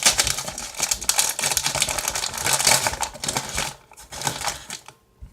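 Plastic snack bag of Goldfish crackers crinkling and tearing as it is opened: a dense crackle for the first three and a half seconds, then a few softer rustles.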